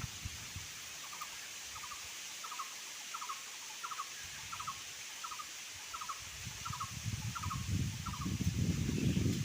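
An animal call repeated about eleven times, each call a quick run of two or three clipped pulses at a middling pitch, roughly one and a half calls a second. It stops shortly before low rumbling noise builds up near the end.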